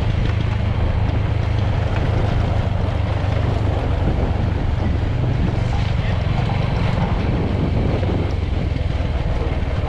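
Steady low rumble of a vehicle under way, with wind buffeting the microphone.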